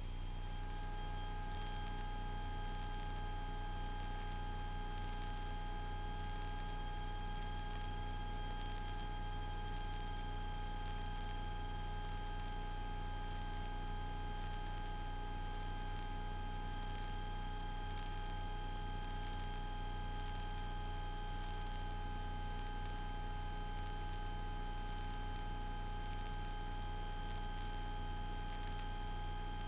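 Cessna 172S's Lycoming four-cylinder engine running steadily at climb power, heard as a low drone through the cockpit audio feed, with a steady high-pitched whine and fainter fixed tones on top.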